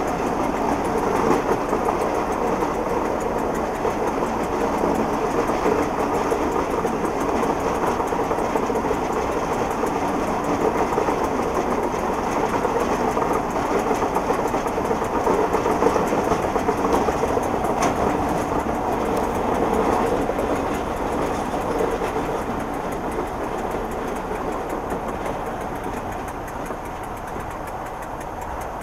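Passenger train running on the rails, with a steady wheel-and-rail rumble and the engine of Class 47 diesel locomotive 47580 running alongside. The sound gets quieter over the last few seconds as the train eases off.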